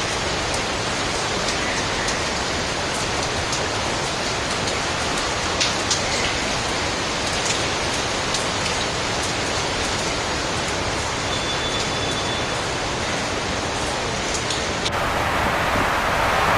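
Steady heavy rain, an even rushing hiss flecked with faint sharper drop ticks. About fifteen seconds in, the sound changes abruptly and turns brighter as wind comes in with the rain.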